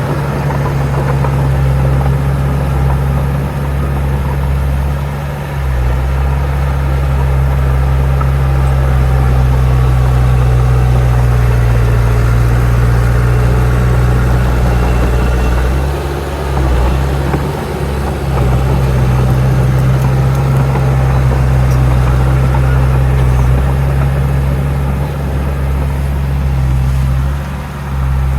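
Heavy diesel earthmoving machine running steadily with a low engine drone, easing off briefly three times: about a fifth of the way in, just past halfway, and near the end.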